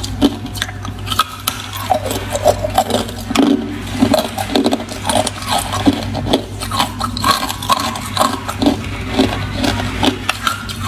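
Ice being chewed close to the microphone: a dense run of crunches, several a second, over a steady low hum.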